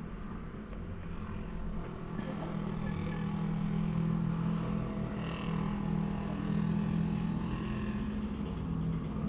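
Yamaha MT-07 parallel-twin motorcycle engine running steadily through an aftermarket full-system exhaust, a steady low drone that grows louder a couple of seconds in.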